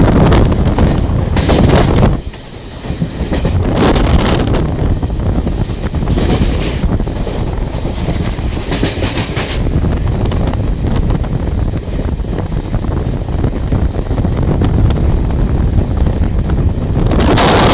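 Express train passing through a station at speed without stopping: a steady rumble of coaches with wheels clacking over the rail joints. The loudness dips briefly about two seconds in.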